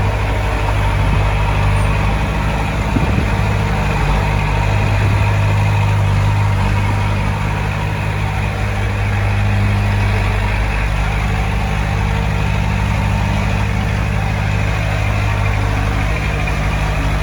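Heavy diesel engine of earthmoving equipment running steadily, a low even drone with no revving.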